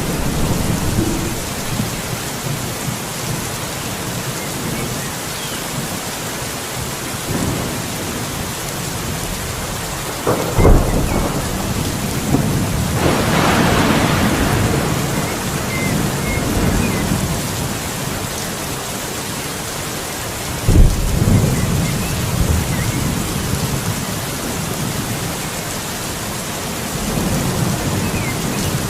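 Steady heavy rain with thunder: a sharp crack about a third of the way in, a rolling rumble soon after, and a louder crack about two-thirds of the way through.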